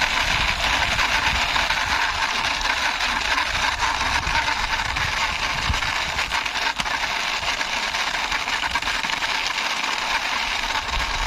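Toy double-decker bus pushed along by hand, its wheels rolling with a steady, continuous rattle.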